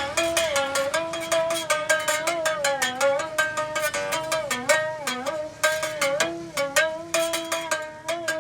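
Homemade berimbau played solo: quick, rhythmic strikes on its single wire, the note bending down and back up again and again.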